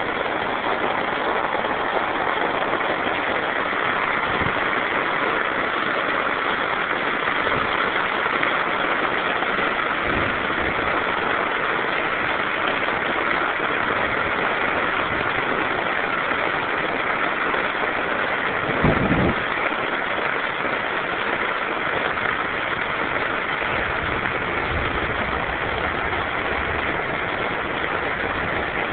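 Floodwater rushing steadily, with one brief low thump about two-thirds of the way through.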